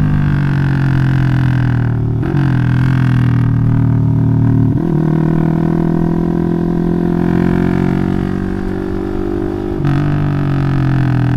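Exhaust of a bored-up 180cc Yamaha Jupiter MX single-cylinder four-stroke through a Requsan Special aftermarket pipe, ridden with the engine held at high rpm, the drone dipping and picking up again about 2, 5 and 10 seconds in as gears change.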